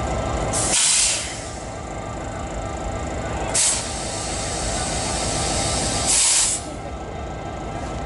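Diesel locomotive CP 2246 running steadily at idle, with three short bursts of hissing air: one about a second in, one near the middle and one past six seconds.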